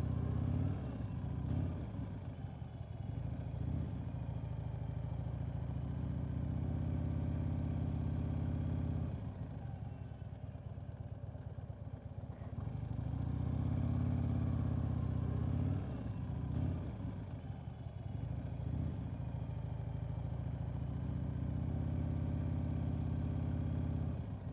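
Motorcycle engine running at low speed, its rumble swelling and fading every several seconds as the bike turns through figure eights.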